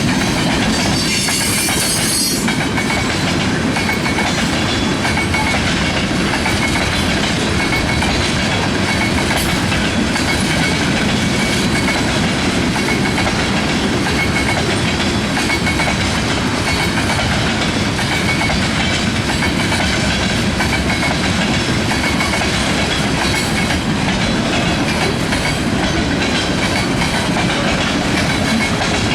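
Freight cars of a Canadian National manifest train rolling past, with a steady rumble and the clickety-clack of wheels over the rails. A brief high-pitched screech about a second in.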